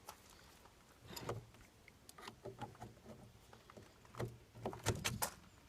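Scattered knocks, clicks and scrapes of the blow-out kit's end fitting being worked onto the end of a two-stroke exhaust pipe, with a cluster of sharper knocks about four to five seconds in.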